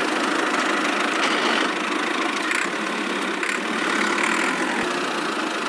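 A small motor running steadily at an even speed, with little bass: the drive of a miniature DIY construction machine.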